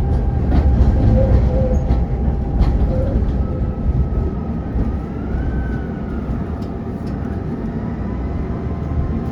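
Tram running along the rails: a heavy low rumble with a few sharp clicks from the wheels and a thin whine that shifts in pitch. It grows a little quieter over the second half.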